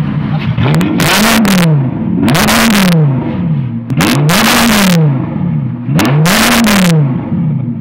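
Audi R8's V10 engine revved from idle four times, about every two seconds, each rev rising sharply and falling back to a steady idle. Loud.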